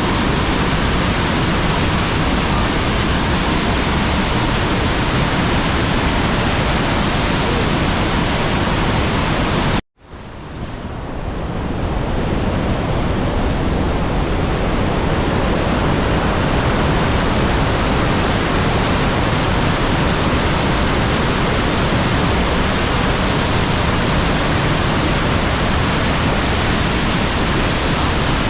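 Loud, steady roar of the Rhine Falls waterfall, heard close up. It cuts out abruptly about ten seconds in and swells back over the next couple of seconds.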